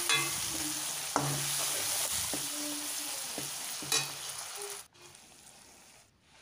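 Spiced onion-tomato masala sizzling in oil in a steel kadhai while a steel ladle stirs it, knocking against the pan a few times. The sizzle drops away suddenly about five seconds in.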